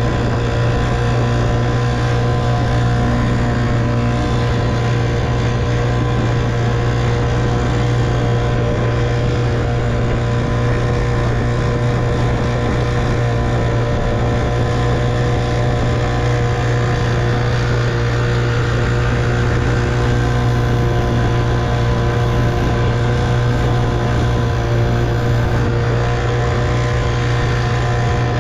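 1958 Evinrude 3 hp two-stroke outboard motor running at a steady speed, pushing the boat along.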